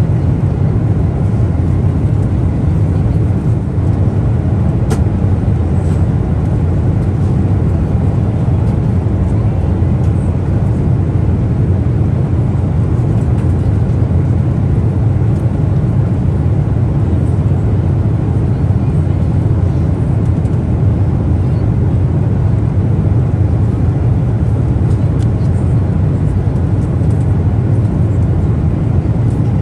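Steady low rumble of cabin noise inside a Boeing 777-300ER: airflow and engine noise heard from a passenger seat.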